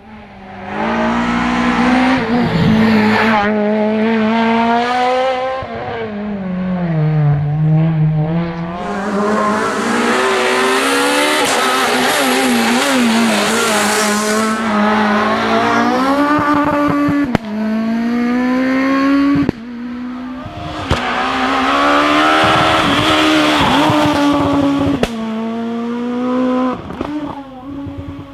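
Rally car engines revving hard and rising and falling in pitch through gear changes as cars drive a special stage, with tyre noise swelling twice.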